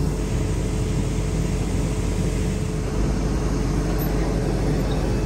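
Race car engine running steadily, heard from inside the cabin, with a constant whine over the low engine note.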